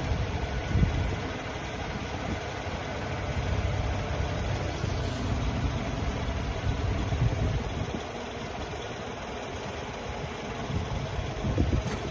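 Engine of heavy earthmoving machinery running steadily, with a few short louder surges.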